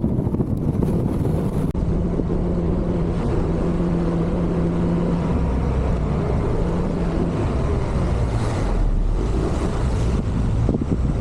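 Honda ADV160 scooter's single-cylinder engine running steadily under way, with wind buffeting the microphone.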